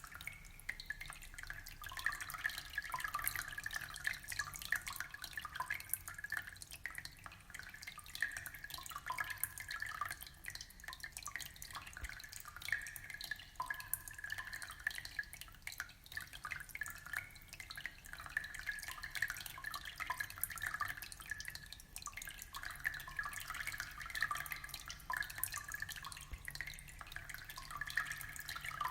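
Aquarium water trickling and bubbling, a steady stream of small drips and plops.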